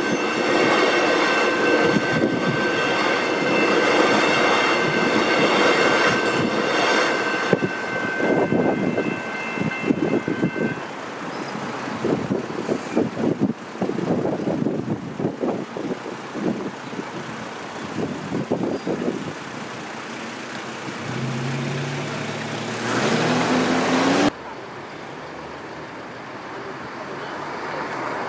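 Suburban electric train passing through a level crossing, wheels clattering over the rails, with the crossing's electronic bells ringing in steady high tones that stop about eight and eleven seconds in. Later a motor rises steadily in pitch for a few seconds before the sound cuts off abruptly.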